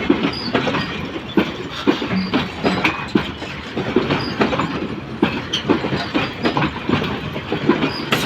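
The coaches of a passenger-parcel express train passing close by at speed. The wheels clatter over rail joints and points in a steady run of sharp knocks, several a second, over the rumble of the rolling stock.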